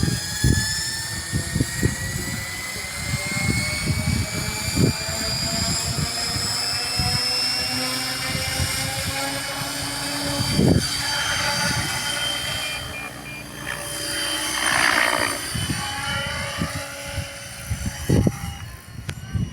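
Radio-controlled model plane's motor and propeller whining in flight, its pitch climbing slowly, swelling louder briefly about two-thirds of the way through. Gusts of wind buffet the microphone throughout.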